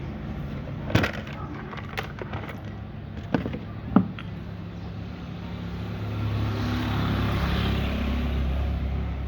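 A steady low motor hum with a few sharp knocks or taps in the first four seconds, then a rushing noise that swells and eases off over the last few seconds.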